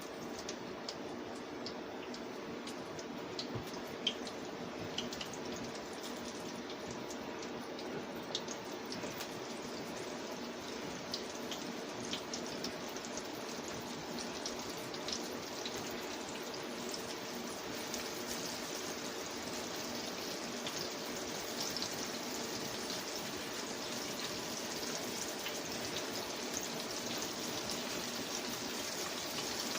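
Floured chicken pieces frying in hot oil in a skillet: a steady sizzle dotted with small crackles and pops, growing a little louder in the second half.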